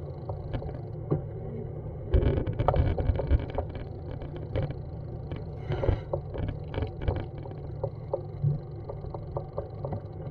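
Outdoor street sound heard while walking with a body-held action camera: a steady low rumble with scattered clicks and knocks, louder and busier from about two to four seconds in.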